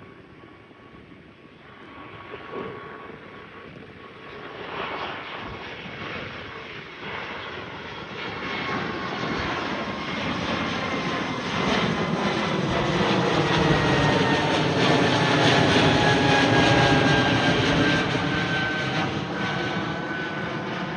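Airbus A220 climbing out overhead at take-off power, its Pratt & Whitney PW1500G geared turbofans growing steadily louder to a peak about two-thirds of the way through, then easing. Whining tones slide slowly down in pitch as it passes over; a very clean sound.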